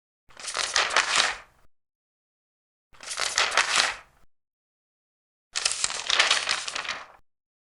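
Large paper pages being turned, three times, each turn a rustle of about a second and a half with dead silence between.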